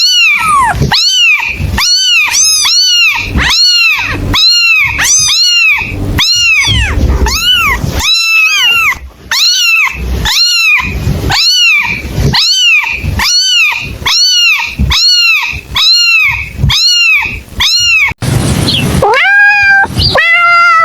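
Kitten meowing over and over, high-pitched mews that rise and fall, about two a second. Near the end, after a brief break, come a few longer, lower meows.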